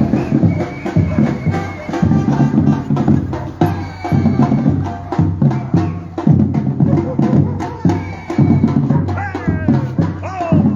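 Batucada percussion group playing a driving street rhythm: deep drums pulsing under a fast run of sharp strokes.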